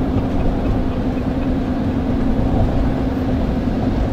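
Steady engine and road drone heard inside a moving vehicle's cabin, with a constant low hum.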